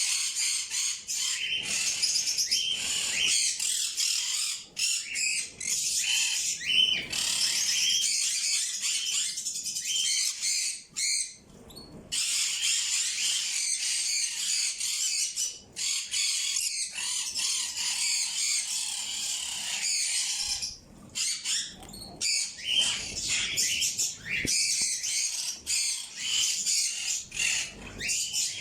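A flock of birds chirping and squawking together in a dense, continuous high-pitched chatter, with brief lulls about 11 and 21 seconds in.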